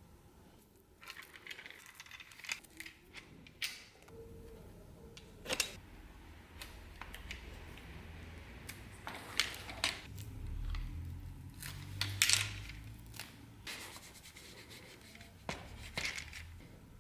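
Handwork noises: irregular clicks, scrapes and rubbing of small objects, with a low hum underneath in the middle.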